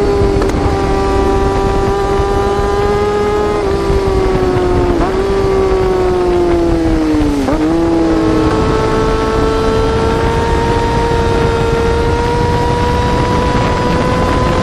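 Yamaha R6 inline-four sport-bike engine held at high revs, a loud, high-pitched steady wail. The pitch sags and snaps back up a few times, then climbs slowly toward the end.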